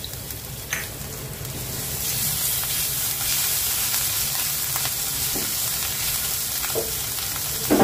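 Green chillies and grated ginger sizzling in a little hot oil with cumin and fennel seeds, a spice tempering, in a nonstick pan. They are stirred with a silicone spatula, and the sizzle grows louder about two seconds in.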